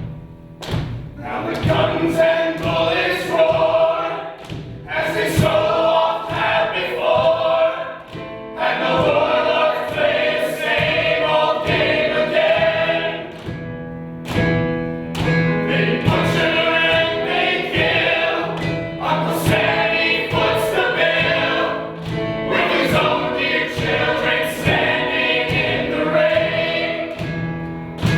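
A group of voices singing together as a choir over a steady low accompaniment, with a regular beat of sharp strokes.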